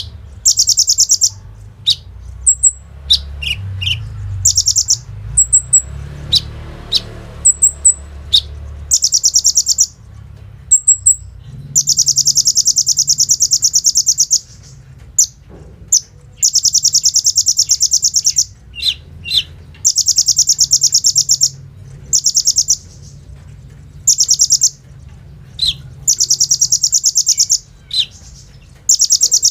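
Olive-backed sunbird singing in long, very fast, machine-gun-like rattling trills, each one to two seconds long. Short high chips and quick down-slurred notes come between them.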